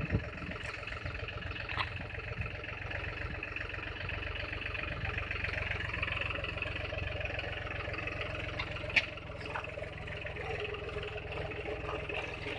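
Tractor engine running steadily, with a few short sharp clanks, the loudest about nine seconds in.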